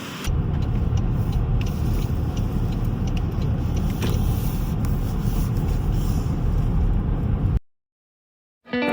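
Steady low road and engine rumble of a moving car heard from inside the cabin; it cuts off abruptly near the end.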